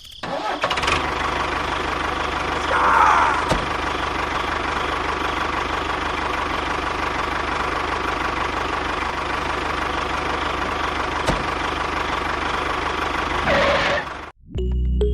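A small motor running steadily. It starts suddenly just after the beginning and cuts off abruptly shortly before the end.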